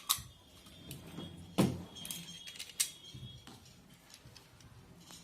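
Small metal clicks and clinks from handling pliers and a refrigerator thermostat, a few sharp ones, the loudest about a second and a half in, with a brief metallic ring after it.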